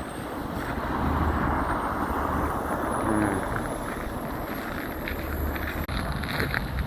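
A car driving past on a snowy street: a rush of tyre and engine noise that swells about a second in and eases off a few seconds later.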